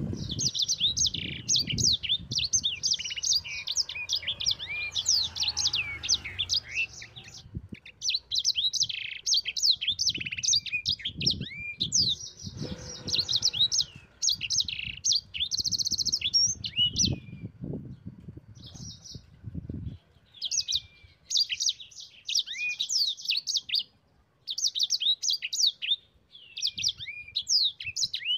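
Sanger songbird singing vigorously: a fast, continuous run of high chirps, twitters and trills in long phrases broken by brief pauses, with some low rumbling noise underneath.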